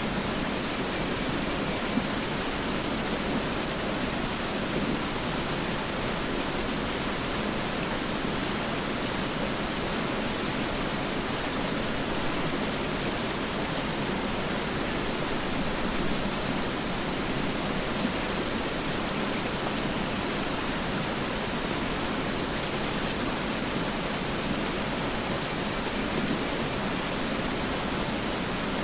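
Mountain river rushing over rocks in a steady, unbroken wash of water noise.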